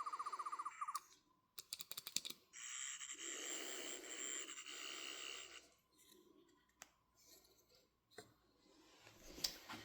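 Sonic screwdriver replica (the metal Dark Eye Sonic) playing its electronic sound effects through its small speaker. A rapid pulsing warble lasts until about a second in, a few button clicks follow, and then a harsher whirring buzz runs for about three seconds. Faint clicks of the toy being handled come near the end.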